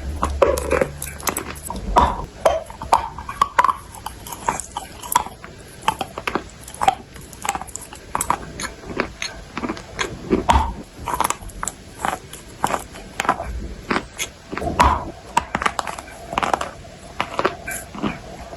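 A person biting and chewing clay close to the microphone: a dense, irregular run of sharp crunches and crackles.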